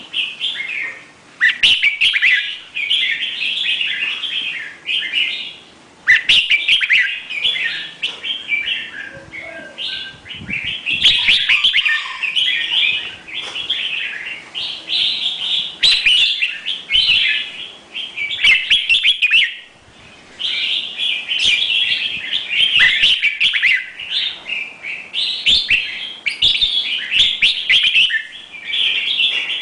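Bird singing: long runs of rapid, high chirping notes, broken by short pauses every few seconds.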